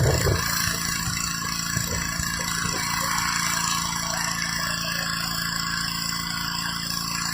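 Petrol pressure washer engine running steadily under a dense hiss of high-pressure water spraying concrete.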